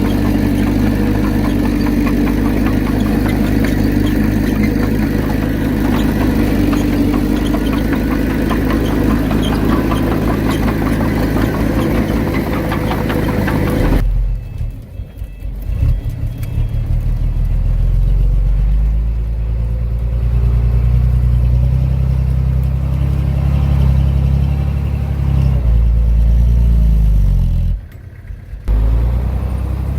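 Heavy diesel earthmoving engine running steadily with a clattering rattle over it. About halfway through the sound changes abruptly to a deeper, smoother engine drone with little rattle, and it breaks off briefly near the end.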